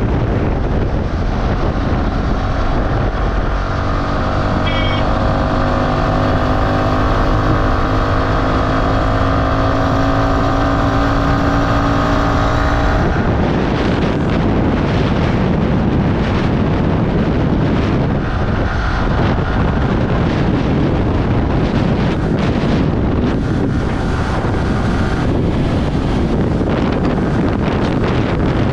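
Yamaha R15 V3 motorcycle's single-cylinder engine pulling hard, its pitch slowly rising for about nine seconds as it accelerates. About halfway through the sound changes abruptly to mostly wind rushing over the microphone at speed, with the engine underneath.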